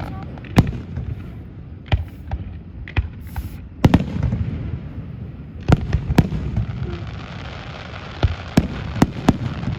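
Aerial fireworks display: about ten sharp booms at uneven intervals, each followed by a rolling low rumble, with a hissing crackle lingering under the bangs from a little past the middle.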